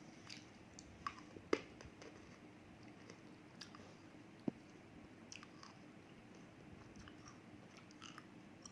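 Close-miked chewing of roasted edible clay: sparse, crisp crunches and clicks. The loudest crunch comes about a second and a half in and a sharp click at about four and a half seconds, over a faint steady hum.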